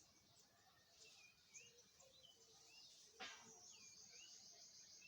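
Faint outdoor ambience of small birds chirping in short repeated notes over a steady high insect hiss, with one sharp click about three seconds in, followed by a fast pulsing high trill.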